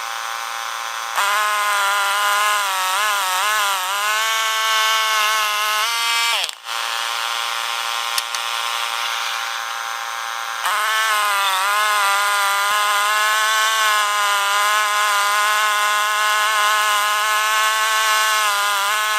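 Frontier portable band sawmill running under load, its engine note wavering and dipping as the blade works through the log. The sound changes abruptly three times.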